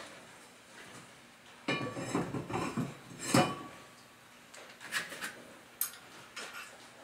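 Metal hardware and tools clinking and clanking: a short run of clatter about two seconds in, one sharp, briefly ringing clank a little later, then a few lighter clicks.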